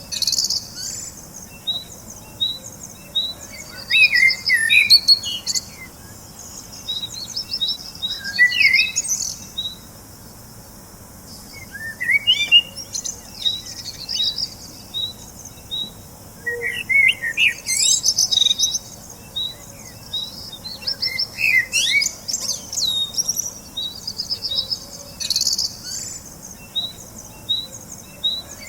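Birds chirping and singing. A short high chirp repeats about twice a second, with bursts of warbling, trilling song every few seconds and a brief lull about a third of the way through.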